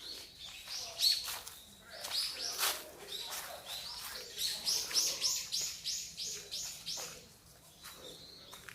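Small birds chirping in short high notes, with a quick run of about three or four chirps a second in the middle.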